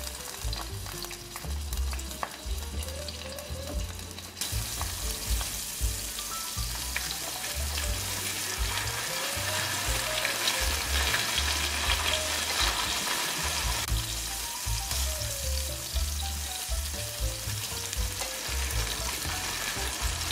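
Marinated mushroom slices sizzling as they pan-fry in oil, turned now and then with wooden chopsticks. The sizzle grows fuller about four seconds in.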